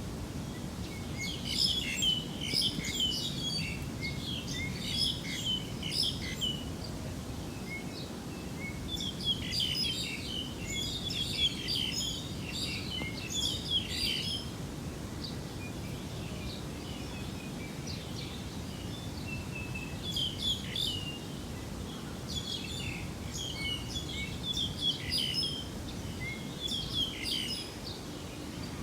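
Small birds chirping and twittering in clusters of quick calls, with short lulls, over a steady low background rumble.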